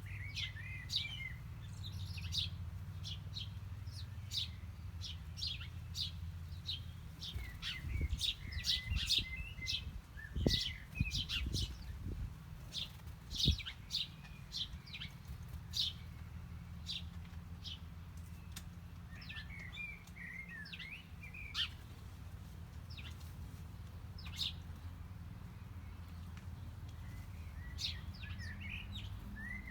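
Small birds chirping with many quick, sharp tweets, busiest in the middle and sparser toward the end, over a steady low rumble. A few low thumps fall in the middle.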